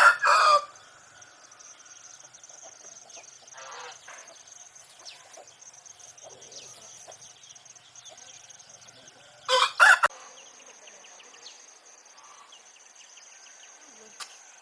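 Chickens calling: two short, loud, two-part squawks, one at the start and one about nine and a half seconds in. A steady high insect drone and faint chirps continue underneath.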